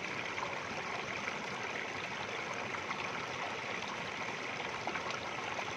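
Flowing stream water, a steady rushing sound.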